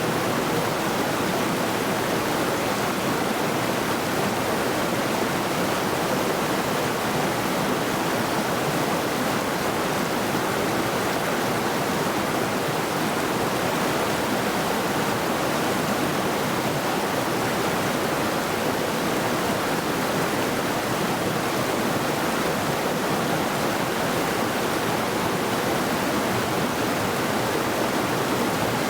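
Mountain river rushing steadily over rocks: an even, unbroken wash of water noise.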